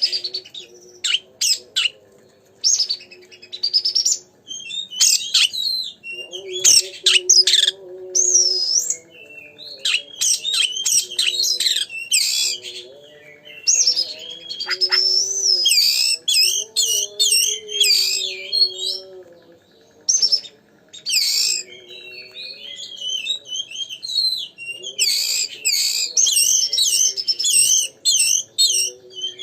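Oriental magpie-robin (kacer) in full song: rapid, varied whistles, trills and chirps in bursts of a few seconds with short gaps between them. This is the vigorous 'gacor' song used as a lure to provoke a kacer into singing back.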